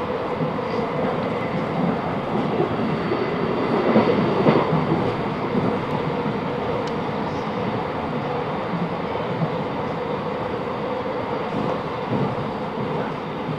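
Class 707 Desiro electric multiple unit running along the line, heard from inside the carriage: a steady rumble of wheels on rail under a constant hum, louder for a moment about four seconds in.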